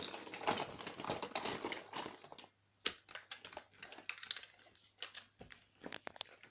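Rustling and light clicking of makeup items being handled, thick for the first couple of seconds, then thinning to scattered separate clicks.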